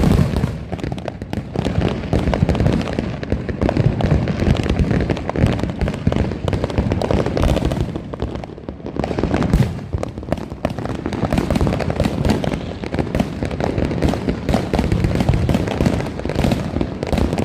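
Many fireworks and firecrackers going off at once and nonstop: a dense, continuous crackle of pops and bangs with no break.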